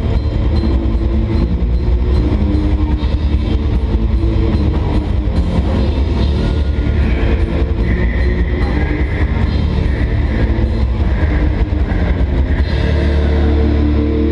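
Heavy metal band playing live: fast drumming with cymbal hits under loud distorted electric guitar. Near the end the drums stop and a guitar chord rings on.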